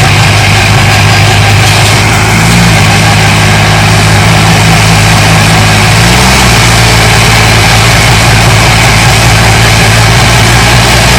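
Turbocharged tractor diesel engine running steadily at a fairly constant speed, with a faint high whine in the first couple of seconds. The engine note shifts slightly about six seconds in.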